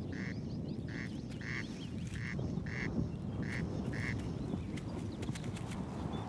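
A bird's rasping two-note call, the pair repeated about every second and a bit, stopping about four seconds in, over steady low background noise.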